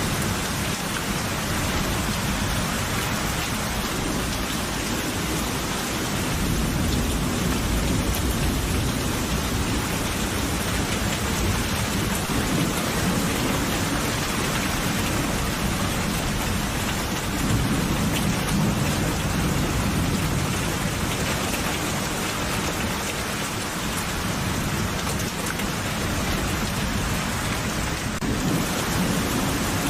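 Steady heavy rain with low rolling thunder rumbling underneath, swelling a few times.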